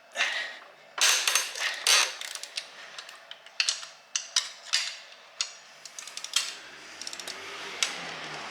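Cylinder head stretch bolts on a Lotus engine being cracked loose with a wrench: a few loud creaking cracks as a tight bolt gives, then a run of irregular sharp clicks and creaks as the wrench is worked.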